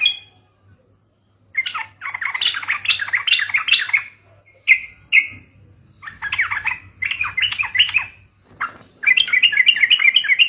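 Yellow-vented bulbul (trucukan) song, used as a lure recording: bursts of rapid, bubbly chattering notes in several phrases with short pauses between them, and a couple of single short calls around the middle.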